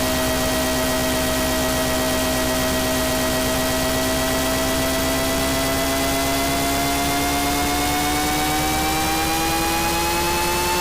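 Techno intro: a sustained synthesizer tone over a wash of hiss, its pitch gliding slowly upward throughout.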